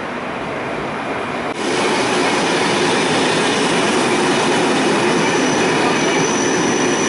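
Passenger train rolling past on the rails close by, a steady dense rumble of wheels and coaches that jumps louder about a second and a half in. A thin high steady squeal from the wheels comes in near the end.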